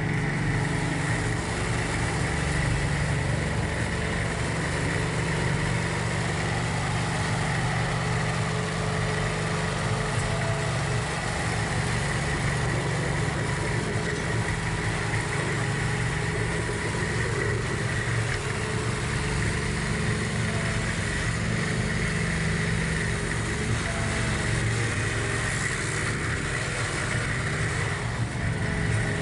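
John Deere 4110 compact tractor's diesel engine running steadily under load, with a steady high whine above the engine note.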